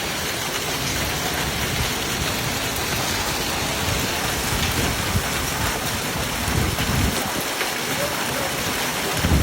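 Heavy hail and rain pelting down steadily in a dense, even hiss, with hailstones splashing into a swimming pool.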